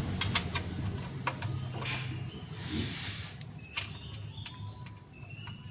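Scattered light metallic clicks and taps of a 17 mm wrench working the engine oil drain plug loose. Faint bird chirps come in during the second half.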